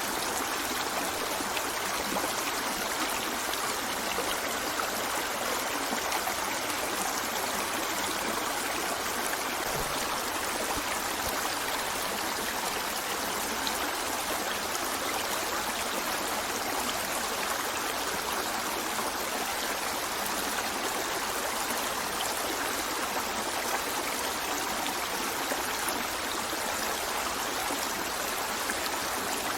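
River water flowing steadily: an even rushing hiss, with hardly any deep rumble.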